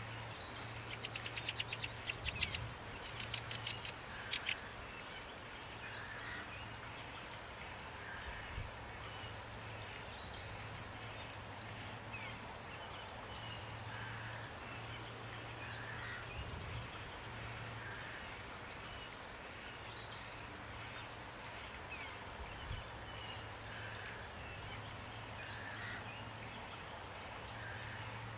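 Small birds chirping and singing in short repeated phrases over a steady hiss of rain. A fast clicking trill, the loudest part, starts about a second in and runs for a few seconds.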